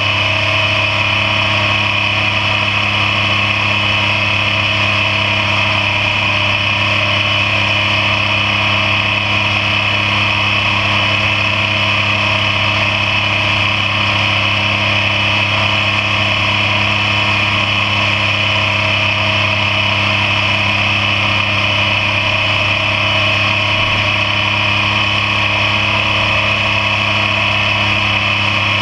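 Yamaha MT-09's inline three-cylinder engine running at a constant speed while the motorcycle cruises, its note holding steady without revving up or down.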